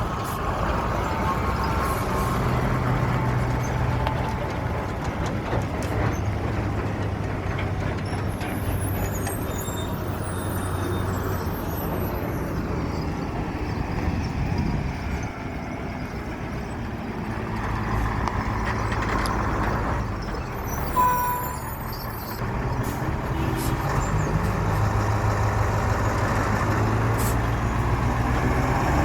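Heavy Mercedes-Benz truck's diesel engine running steadily under load, its pitch shifting a little as the revs change. Near the end there is one brief high-pitched tone.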